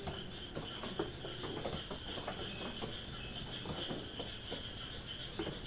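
Floor being wiped by hand with a cloth: soft scuffs and small scattered clicks, over a faint steady high-pitched background hum.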